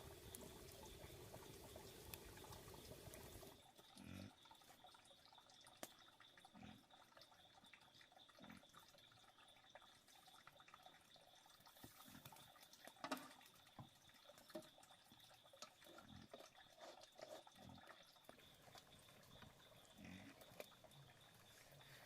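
Faint water sounds: scattered drips and small splashes, with a thin steady high tone underneath. A soft hiss stops about three seconds in.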